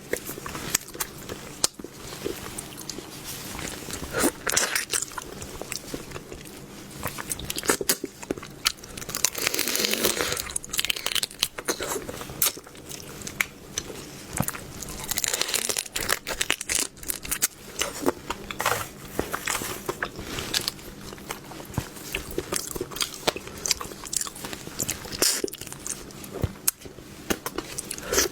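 A person biting and chewing seafood close to the microphone: irregular crunches, clicks and wet mouth sounds throughout.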